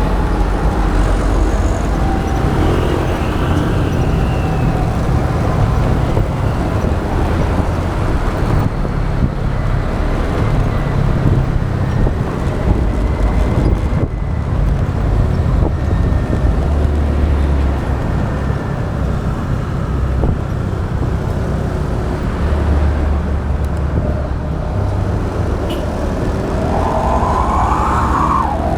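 Motorbike riding in road traffic, heard from an action camera on the bike: a heavy steady wind and engine rumble with passing vehicles. Near the end, a brief louder rising sound from the traffic.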